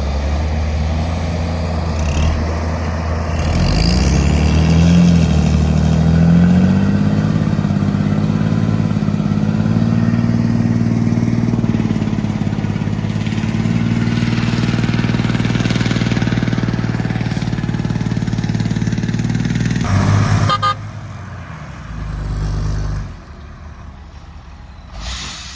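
Case Magnum 240 tractor's 8.3-litre Cummins diesel engine running; its revs rise a few seconds in and then hold steady. The engine sound breaks off suddenly about twenty seconds in, followed by a brief low rumble and then quieter background.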